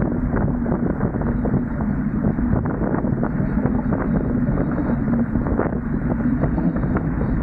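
Wind buffeting the microphone of a camera aboard a Dart 18 catamaran under sail: a steady low rush with many short crackles.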